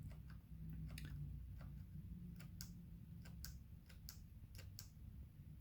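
Handlebar switch buttons on a Ducati Scrambler 1100 clicking faintly and irregularly, about a dozen presses, over a low steady hum.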